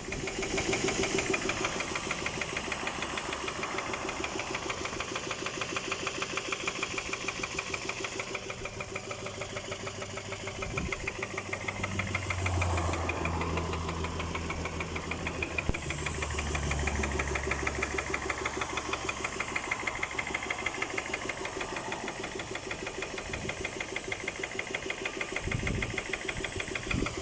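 An engine running with a fast, steady, rhythmic knock, the sign of an engine knock fault. A deeper low hum joins for several seconds midway.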